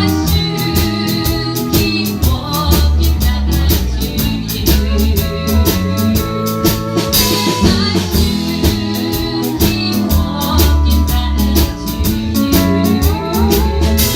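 A band playing a song: drums keep a steady beat under bass and guitar, with singing.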